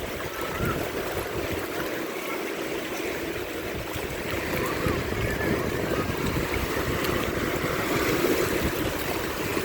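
Sea waves washing onto the beach, a steady rush of surf, with wind buffeting the microphone.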